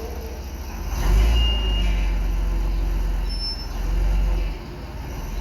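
A vehicle engine running, a low rumble that grows louder about a second in, with a brief high tone soon after.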